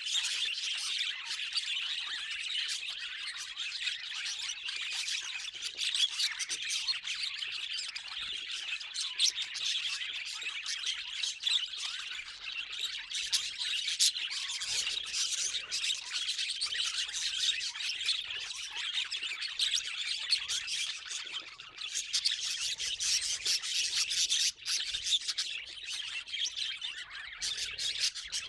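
A group of budgerigars chattering and chirping continuously, with many short, sharp chirps over a dense, high warble.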